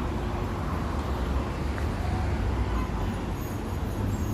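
Steady rumble of road traffic in a street, with indistinct voices in the background.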